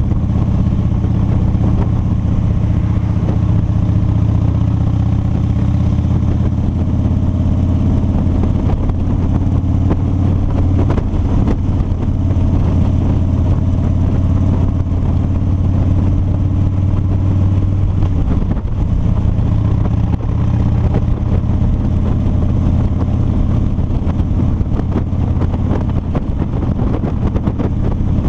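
A 2007 Harley-Davidson Street Bob's Twin Cam 96 V-twin, heard from the rider's helmet, running steadily at road speed. About two-thirds of the way through, the engine note briefly drops and then picks up again.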